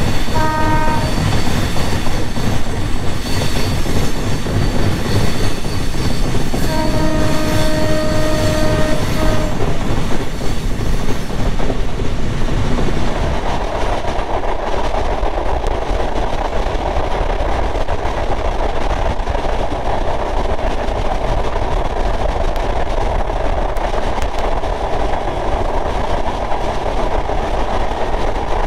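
Passenger train running on the rails with a continuous rumble. Its horn sounds twice: a short blast at the start and a longer one of about three seconds around seven seconds in. From about halfway on, a steady rushing noise takes over.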